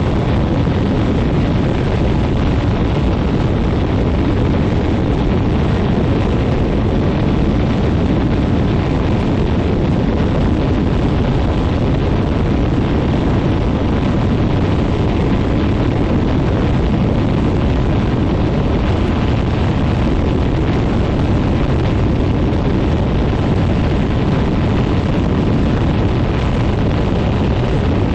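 Quicksilver MX ultralight floatplane's engine running steadily, its propeller blast buffeting the microphone in a loud, continuous rumble.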